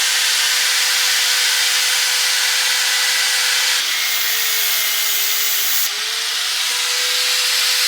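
Electric angle grinder cutting through a motorcycle exhaust muffler, a continuous grinding hiss over the motor's steady whine. The whine drops in pitch twice, about four and six seconds in, as the disc bogs under the cut, then picks back up.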